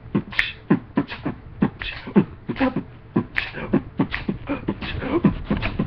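Beatboxing: a fast, repeating beat of short mouth-made drum sounds, many of them quick downward-pitched kicks, about three or four a second.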